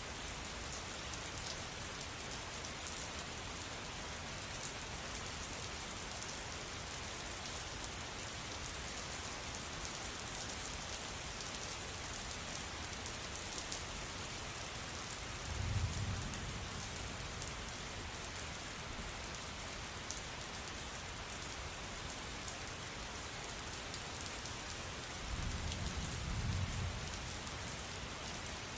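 Steady rain falling, an even hiss of drops. Two brief low rumbles rise out of it, about halfway through and again near the end.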